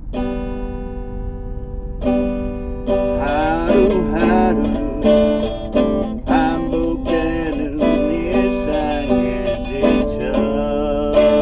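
Acoustic guitar strummed in chords. A single chord rings out, then steady rhythmic strumming begins about two seconds in, with a wavering melody line over it.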